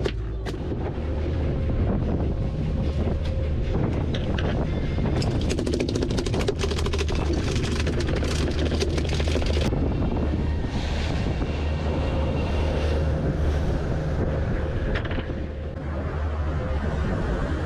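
Boat engine running steadily underway, with wind buffeting the microphone and frequent short crackles.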